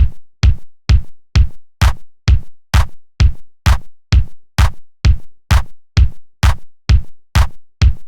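Electronic drum-machine beat: a deep kick drum on every beat, about two beats a second, each hit dying away quickly, with brighter hits layered on some of them.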